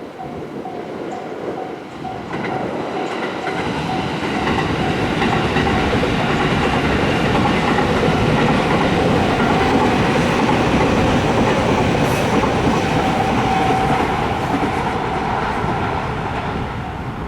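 A train passing over a level crossing: the rumble and wheel clatter build from about two seconds in, are loudest in the middle, and fade near the end. A crossing warning bell rings with a steady repeating tone throughout, partly drowned out while the train is closest.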